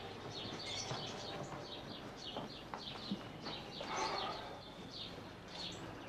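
Small birds chirping in the background: many short, high calls in quick succession.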